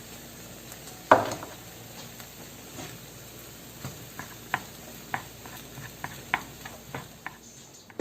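Kimchi fried rice sizzling in a pan while it is stir-fried, with a steady hiss. A spatula clacks hard against the pan once about a second in, then taps and scrapes it irregularly in the second half.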